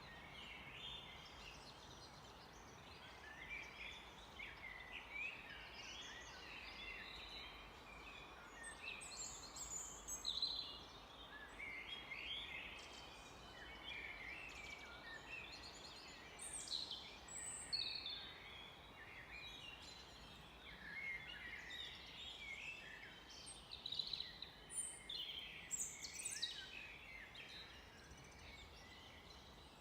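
Several wild birds singing and calling over one another, many short chirps and quick whistled phrases overlapping, over a faint steady background hiss.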